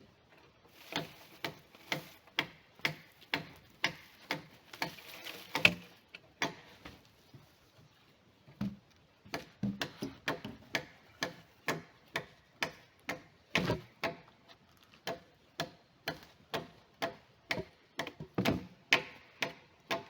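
Repeated sharp strikes of a hand tool at a steady pace of about two a second, typical of hammering or chopping at the cabin build. A brief pause comes about six seconds in before the strikes resume.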